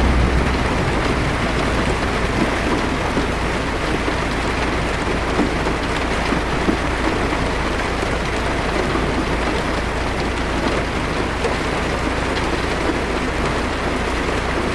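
Heavy rain beating steadily on a car's roof and windshield, heard from inside the car, with a low thunder rumble fading out in the first second.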